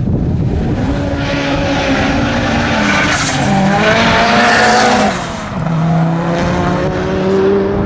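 Turbocharged Mk1 VW Golf 4WD drag car launching hard and accelerating at full throttle, its engine note climbing and then dropping sharply at two upshifts, about two and a half seconds in and again about five seconds in.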